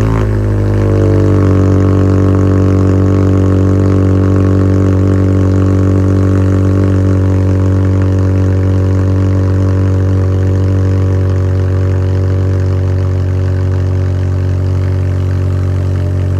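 A 2005 Honda Accord's engine running through a new custom dual exhaust with blast pipes. It is loud, and its pitch drops over the first second as it settles right after starting into a steady idle.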